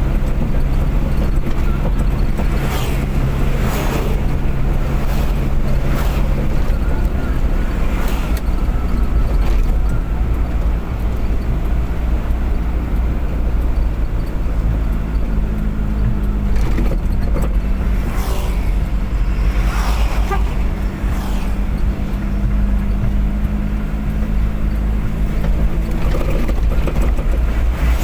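A car engine running steadily with road noise from travelling at speed: a constant low rumble and engine hum whose pitch shifts a couple of times. Short whooshes come through now and then.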